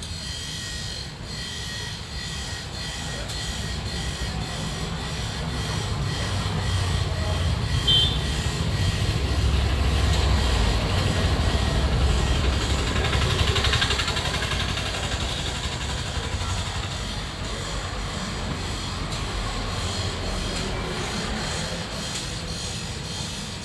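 A vehicle on the move: engine and road noise as a steady low rumble that swells louder through the middle and then eases.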